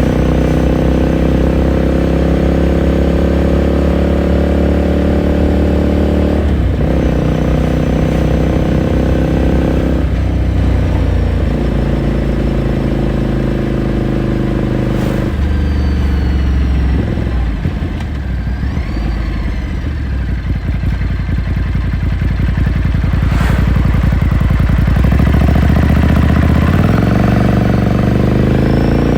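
2018 Ducati Scrambler Sixty2's air-cooled L-twin engine and exhaust on the move: revs climb steadily with a drop in pitch at each of three upshifts. About two-thirds of the way through it falls to an uneven low burble off the throttle, then pulls up again near the end.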